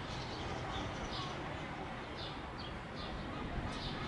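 A flock of birds calling: short, high calls repeating every half second or so, over the steady hiss and rumble of the storm.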